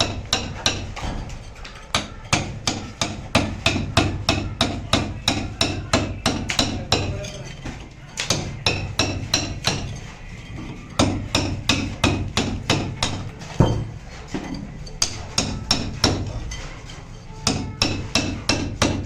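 A hand hammer striking repeatedly, about three blows a second, in runs with short pauses between them, over a steady low hum.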